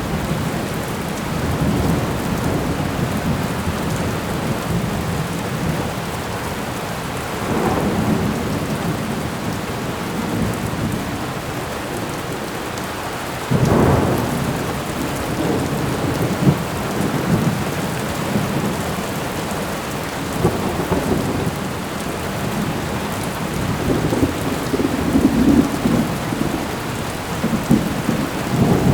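Thunderstorm: steady heavy rain with rolls of thunder, a sudden sharper crack of thunder about halfway through and further low rumbling near the end.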